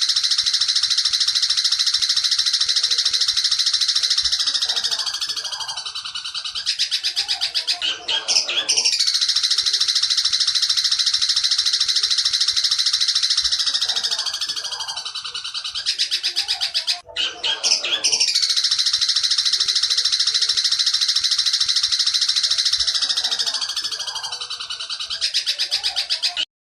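Long-tailed shrike (cendet) singing its 'petir' song: a very fast, high-pitched trill in three long phrases of about eight seconds each, with brief breaks between them, cutting off abruptly near the end.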